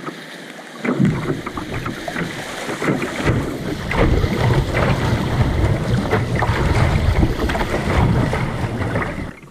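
Wind rumbling and buffeting on the microphone over a rush of water noise, starting about a second in and cutting off abruptly near the end.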